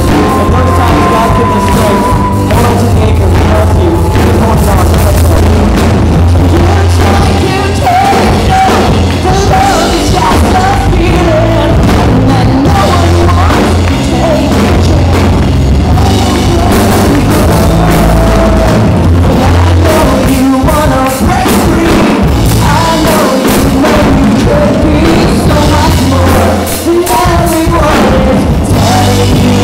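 A live rock band plays with bass and drum kit, and a singer's voice carries the melody. The sound is loud and dense, and the recording is rough.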